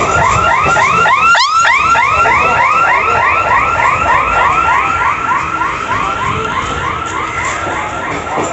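Electronic warbling alarm: a loud, rising-and-falling chirp repeating evenly about four times a second.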